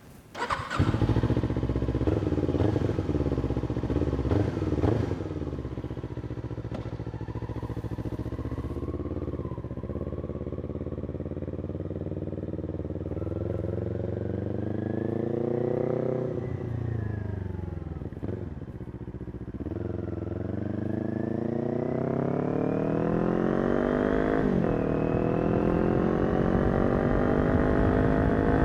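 Kawasaki Ninja 400 parallel-twin with a Yoshimura exhaust: the engine comes in suddenly about half a second in, runs with a few quick throttle blips, then revs climb as the bike pulls away and accelerates. The revs drop and climb again, with a gear change about three-quarters of the way through.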